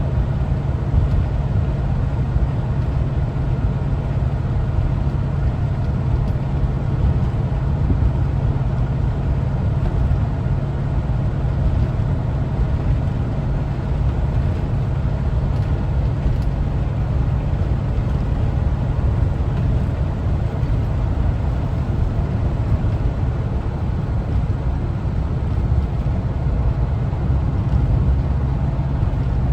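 1974 Volkswagen Westfalia camper van driving at a steady pace: its air-cooled Type 4 flat-four engine runs with a steady low rumble under road and tyre noise, with no gear change or revving.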